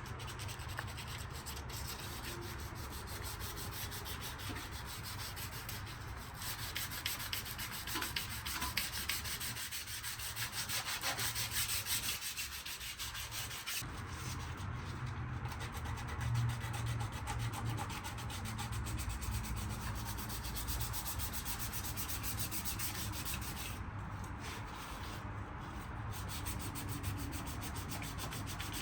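Sanding the painted sheet metal of a car's engine bay, taking it down from black paint: a steady scratchy rubbing that goes on without a break.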